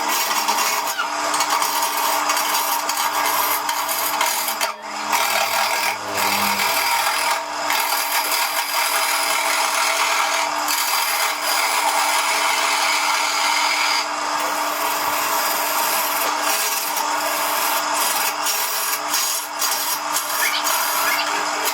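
Wood being worked with a tool: continuous rasping and rubbing, with a faint steady hum underneath.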